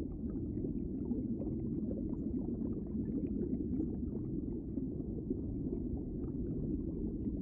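Aquarium water circulating: a steady low rumble with faint scattered crackling and bubbling.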